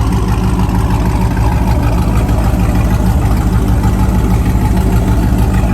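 A car engine idling loudly and steadily, with an even low pulsing rumble.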